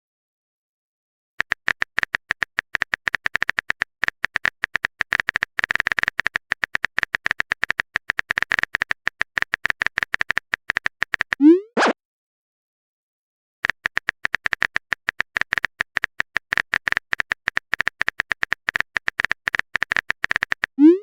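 Typing sound effect of a phone chat: rapid keyboard-style clicks in two long runs. Each run ends in a short rising pop of a message alert, one about halfway and one at the very end.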